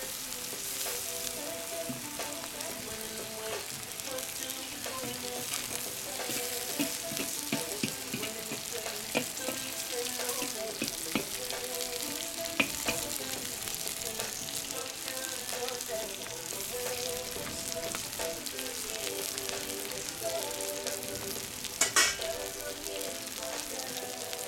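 Meat and julienned carrots sizzling in hot oil in a cast-iron kazan, with a steady hiss full of small crackles and spatters, now and then stirred with a metal skimmer. A sharper, louder crackle comes near the end.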